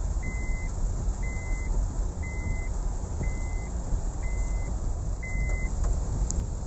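Vehicle warning beeper sounding six times, about once a second, each beep a short steady high tone, over a steady low rumble.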